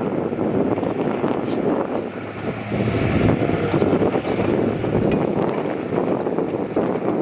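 Heavy diesel earthmoving machinery running steadily and loudly, with scattered clanks and rattles through it.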